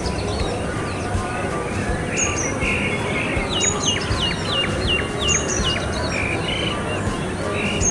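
Several birds calling and chirping over a steady low background noise, with a run of about seven quick, repeated whistled notes around the middle.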